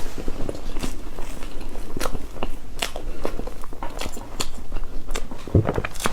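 Close-miked chewing of cake: soft wet mouth sounds with many small sharp clicks and smacks, irregularly spaced.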